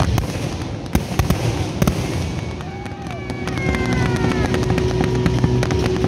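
Aerial fireworks bursting over water: repeated sharp bangs and crackling, with a few falling tones near the middle. A steady low hum joins about halfway through and carries on.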